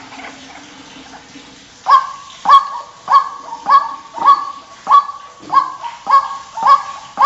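White-breasted waterhen (ruak-ruak) calling: a steady series of loud, harsh honking notes, about one every 0.6 seconds. The notes start about two seconds in. This is the repetitive territorial call that is used as a lure call for trapping.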